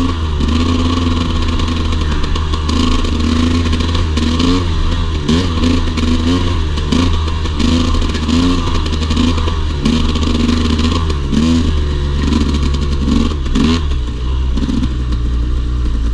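Dirt bike engine being ridden, its pitch rising and falling over and over as the throttle is opened and closed, with some clatter. Near the end it settles to a steadier, lower note.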